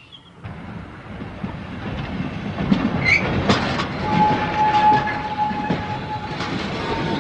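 Freight wagons rolling past on the rails, wheels clacking and knocking over the rail joints and points, with a thin steady squeal from the wheels starting about four seconds in.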